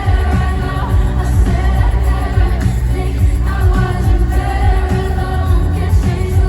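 Live pop performance: a female lead vocal sings a melody over a band with a heavy, pulsing bass.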